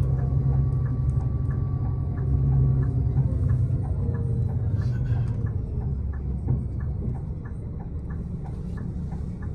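A passing motor vehicle's low engine rumble that fades away after about five seconds. Throughout there is a light, regular ticking about three times a second.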